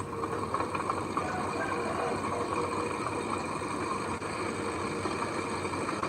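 Heavy machinery engine running steadily.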